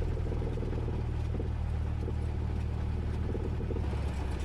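Cessna 172S's four-cylinder Lycoming engine running steadily at low power, a deep even drone, with a slight shift in its tone near the end.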